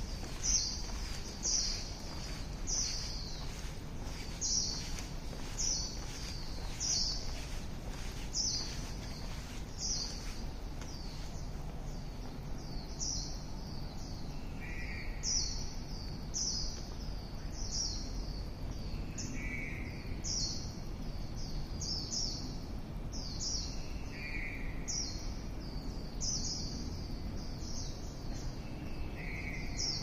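Birds calling: one bird repeats a short, high, falling call about once a second throughout, and from about halfway a second bird adds a lower trilled call every four to five seconds. A steady low hum of background noise lies under them.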